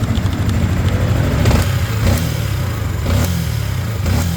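Yamaha Sniper 155R single-cylinder engine idling steadily after its failed cam chain tensioner was replaced, with a few scattered sharp clicks.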